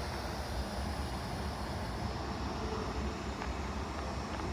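Steady hiss of air over the low rumble of CSX diesel freight locomotives, as the stopped train's air brakes charge and release just before it starts to move.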